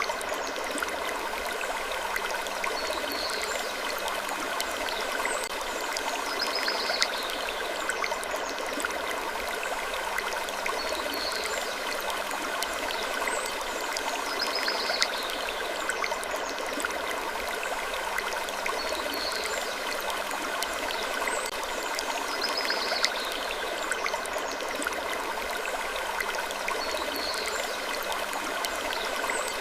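Looped sleep ambience: a steady rushing noise like running water, with a short high-pitched sound recurring about every two seconds.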